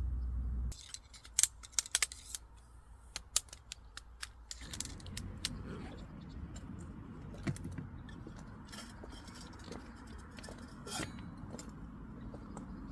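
A low steady rumble cuts off abruptly under a second in. It is followed by a run of sharp clicks and clacks of small hard objects being handled, most of them in the first few seconds.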